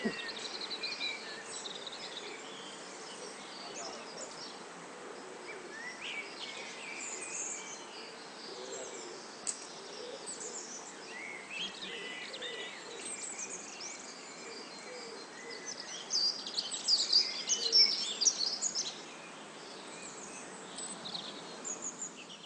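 Outdoor background with birds chirping on and off, and a brief flurry of louder chirping about three-quarters of the way through.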